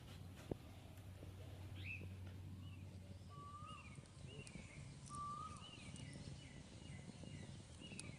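Birds chirping faintly: a string of short, high, downward-curving chirps, with two longer whistled notes around the middle, over a faint low hum.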